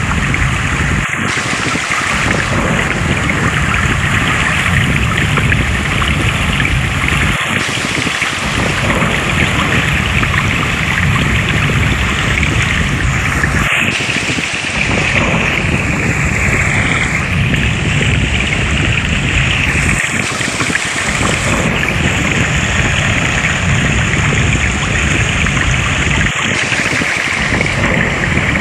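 Flowing water rushing steadily and loudly, with brief dips in the deep part of the sound every six or seven seconds.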